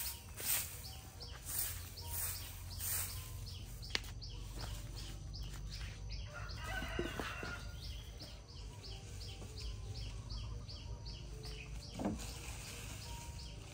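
Outdoor ambience with a small bird chirping over and over, short high chirps about three a second, over a low steady rumble of wind. About seven seconds in there is a brief cluster of fowl-like clucking calls.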